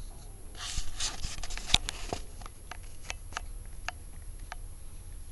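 A short burst of rustling and rubbing about a second in, with one sharp click in the middle of it, then scattered light ticks and taps.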